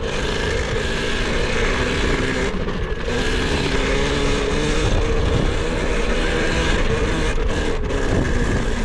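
KTM electric kids' dirt bike riding through mud. Its motor note rises and falls over a steady rushing noise, and the sound drops off at the very end.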